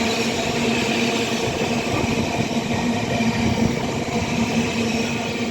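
Freight train passing through the station, its wagons running over the rails with a steady loud rumble and hum.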